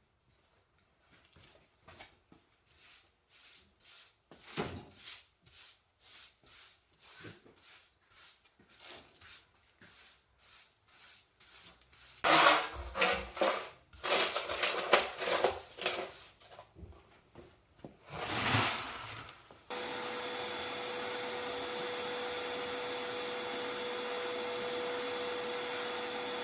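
Speedy Dry absorbent granules being swept up in short, repeated scratchy strokes, which grow louder and denser around the middle. A vacuum then switches on and runs steadily with a constant hum until the end.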